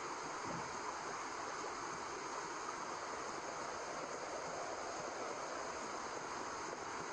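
Steady white noise used to lull a baby to sleep, meant to mimic the sound of the womb: an even, unbroken hiss, strongest in the middle range.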